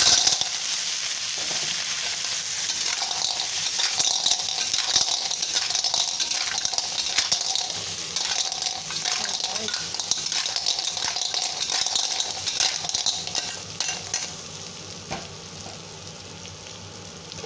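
Clams in their shells sizzling in hot oil with minced garlic and ginger in a stainless steel wok, stirred with a metal spatula that clicks and scrapes against the pan and shells. The sizzle starts suddenly as the clams go in and dies down noticeably about fourteen seconds in.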